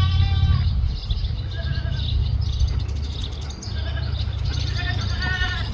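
Goats bleating, several short calls in turn, the first near the start the loudest, with a steady low rumble underneath.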